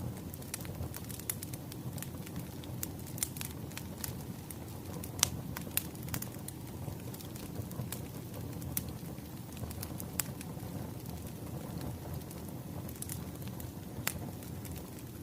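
Wood fire crackling: a steady low rumble of burning logs with sharp, irregular pops and snaps, the loudest about five seconds in.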